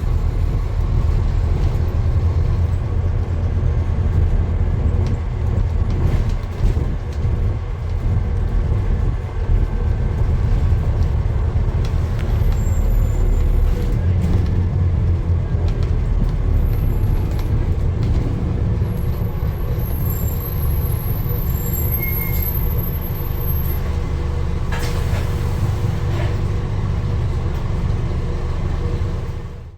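Steady low rumble of a running road vehicle, with a faint high whine for a few seconds around the middle.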